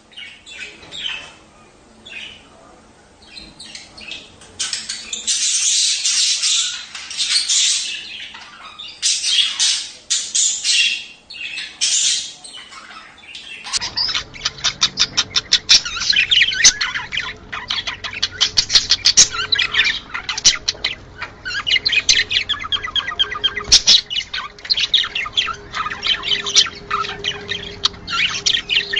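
Budgerigars chattering and warbling, many high chirps and squawks overlapping. About halfway through the sound changes abruptly to a denser, faster run of chirps over a faint steady hum.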